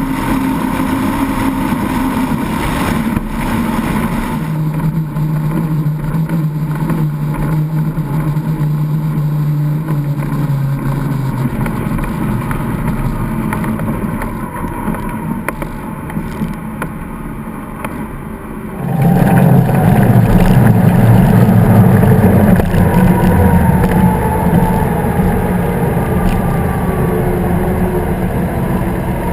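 Powerboat engines running steadily. They ease off somewhat, then open up suddenly about two-thirds of the way through and run louder from there on.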